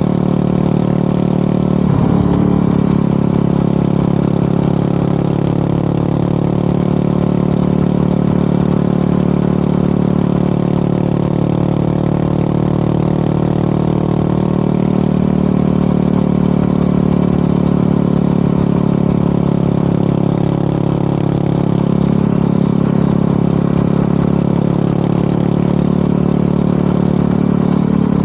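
Yamaha WR250R's single-cylinder engine and FMF Powercore 4 exhaust running at a steady cruising speed, the pitch holding even, with a brief change in the engine note about two seconds in and another near the end.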